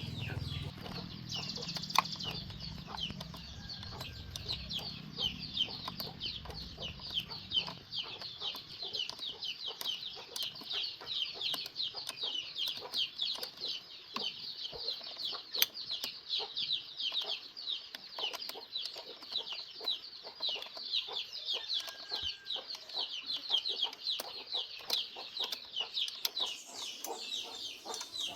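Birds peeping and chirping in a dense chorus of short, falling, high chirps, several a second. A low rumble fades out over the first several seconds.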